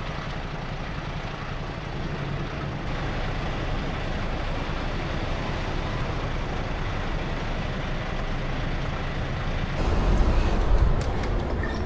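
Semi-truck running, a steady low engine rumble with road noise that grows louder near the end, with a few clicks.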